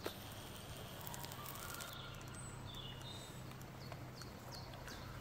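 Quiet forest ambience with a small bird singing short, repeated falling notes over the second half. A sharp click comes at the very start, and faint handling sounds about a second or two in.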